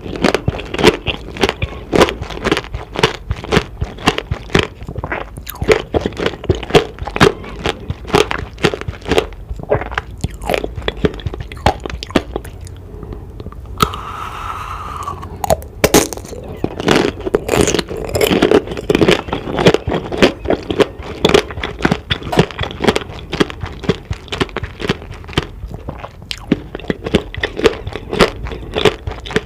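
Close-up crunching and chewing of candied fruit tanghulu: repeated bites cracking the hard sugar shell, with a short pause about halfway through.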